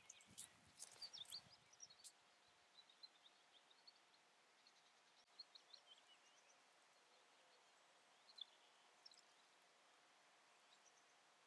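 Near silence with faint birdsong: scattered high chirps and short phrases of small songbirds. A few soft crackles and clicks come in the first two seconds.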